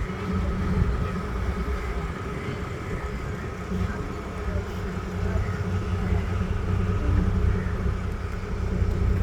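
Boat engine running steadily under way, a constant low drone with a steady higher hum above it.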